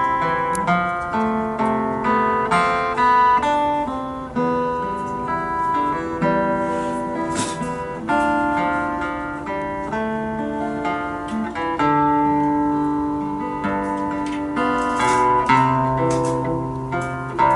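Instrumental music led by plucked guitar: a run of picked notes and chords, each note starting sharply and dying away.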